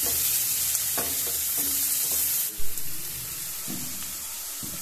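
Chopped onions with ginger, garlic and green chillies sizzling in hot vegetable oil in a black wok, stirred with a wooden spatula. A single sharp knock comes a little past halfway, and the sizzle is quieter after it.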